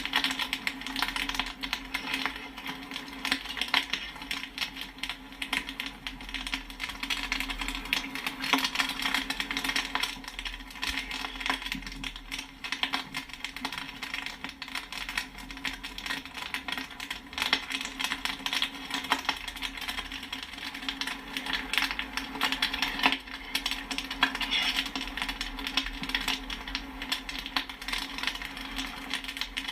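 Popcorn popping at full rate: a dense, continuous patter of sharp pops and pings, over a steady low hum.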